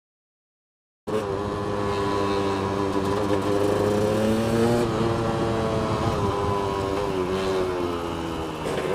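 A dirt bike engine starts to be heard about a second in and runs at a fairly steady pitch. It rises gently near the middle, then eases off.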